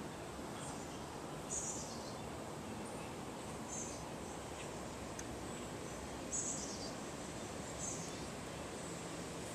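A small bird chirping: short high chirps, each falling in pitch, every second or two over a steady background hiss.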